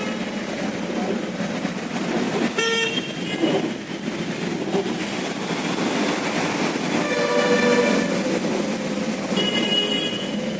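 Street traffic running steadily, with vehicle horns honking three times: a short toot about a third of the way in, then two longer honks near the end.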